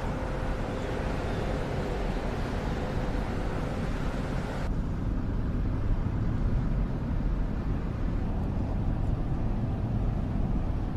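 Steady low rumble of a car driving, heard from inside the cabin. A higher hiss layered over it drops away suddenly about five seconds in.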